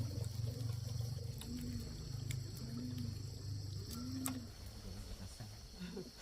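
Three short, low animal calls, each a brief rise and fall in pitch, a little over a second apart, over a steady low rumble that fades near the end, with a steady high hiss and scattered faint clicks.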